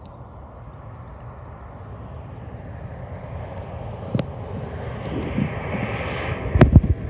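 Airliner passing near the runway, its engine noise rising steadily as it approaches. Low thumps on the microphone near the end.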